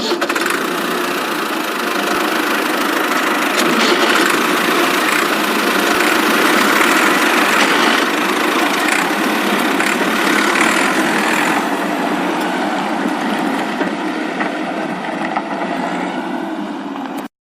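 Radio-controlled off-road car's motor and drivetrain running steadily under load, with a few small clicks. It cuts off suddenly near the end.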